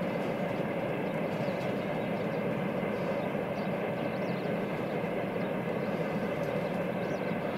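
Distant freight train running along the line, heard across open fields as a steady, even rumble.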